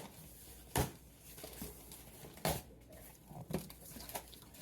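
A few separate light taps and rustles of a cardboard box being handled and opened, with quiet pauses between them.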